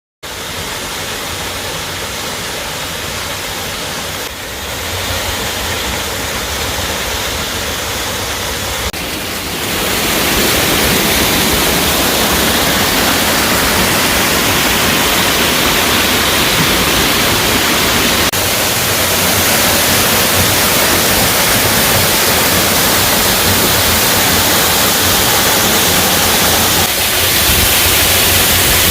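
Waterfall: water pouring steadily into its plunge pool, a dense rushing noise that grows louder in steps, most clearly about ten seconds in.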